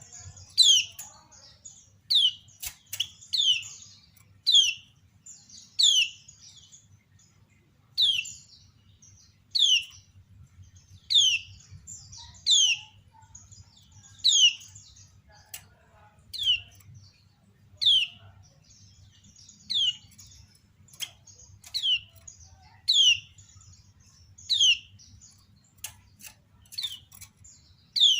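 Female kecial kuning (yellow white-eye) giving its 'ciak' call: a short, high chirp sliding down in pitch, repeated steadily about every one and a half seconds, with thin sharp ticks in between.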